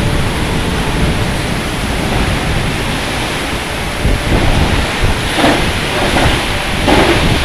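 Heavy rainstorm: a dense, steady rush of pouring rain and wind, with two brief louder surges a little after the middle.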